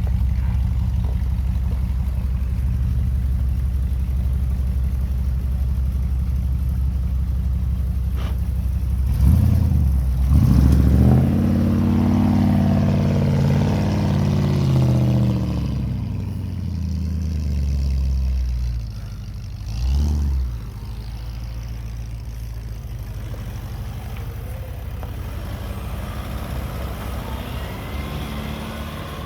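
Heavy engine running steadily, then revving up louder with its pitch rising and falling for about ten seconds, with one more short surge, before settling back to a quieter steady run.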